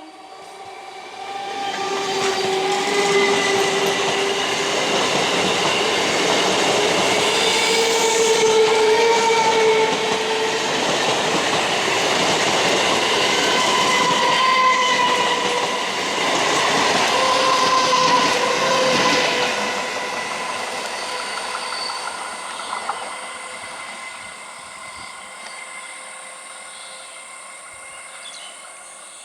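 An Indian Railways train running past at speed: a loud rush of wheels on rail with wavering squealing tones over it, building within the first couple of seconds, holding for about twenty seconds, then fading away.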